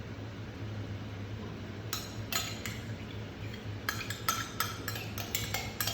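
A spoon clinking and tapping against a jar and mixing bowl while dressing is spooned over salad: a few sharp clinks, then a quicker run of them in the second half, over a steady low hum.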